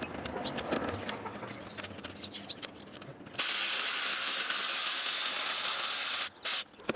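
Scattered clicks of hand tools, then a loud steady hiss lasting about three seconds that cuts off abruptly, with a short second burst of hiss just after.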